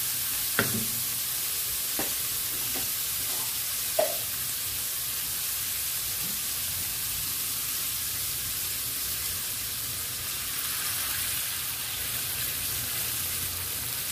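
Pork slices with onion and garlic in soy sauce sizzling steadily in a frying pan, with a few sharp knocks of a wooden spatula against the pan in the first four seconds.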